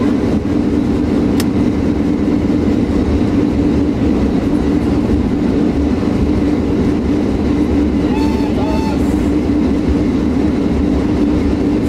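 Steady rolling noise of a historic steam train's carriage running along the track, heard from inside the coach, with a single sharp click early on.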